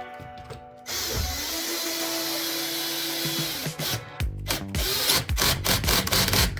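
Cordless drill-driver running, likely driving screws. A steady whirr starts about a second in. From about four seconds in it gives way to a rapid, uneven clatter of knocks.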